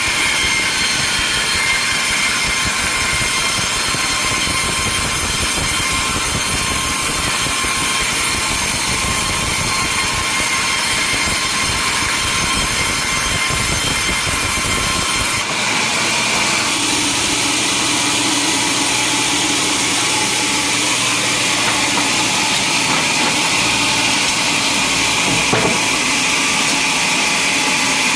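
Sawmill saw running and cutting through a log, a loud steady machine noise with a high whine. The sound changes abruptly about halfway through to a different, thinner machine noise.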